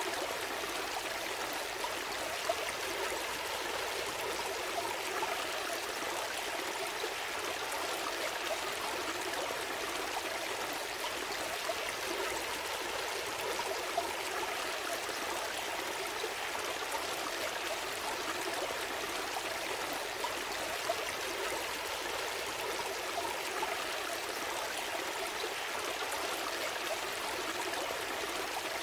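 A small stream flowing steadily over rocks, a continuous rushing and trickling babble.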